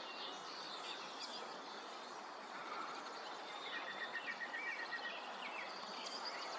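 Small birds calling and chirping over a steady outdoor hiss. Near the middle there is a quick, even series of about eight notes.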